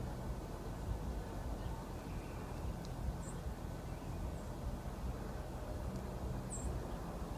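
Steady low rumble of a car engine idling, with two short high chirps of a small bird, about three and six seconds in.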